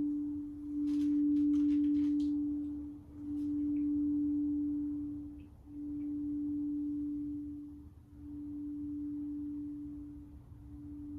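Crystal singing bowl ringing one low, pure tone that swells and fades about every two and a half seconds, slowly dying away.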